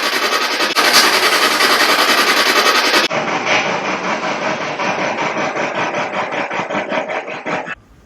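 Loud static hiss, pulsing in a regular chop of about six beats a second, that cuts off abruptly near the end.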